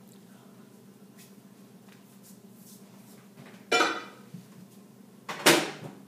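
Two sharp clunks about two seconds apart: a ceramic mug of water set down inside a microwave oven, ringing briefly, then the microwave door swung shut.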